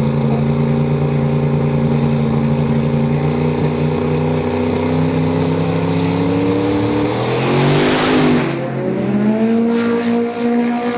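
Turbocharged 435 ci Windsor V8 of a drag car running at steady, slowly rising revs. About seven to eight seconds in it surges into a louder rushing burst with a high whistle sweeping up and down, then settles back to a steady engine note.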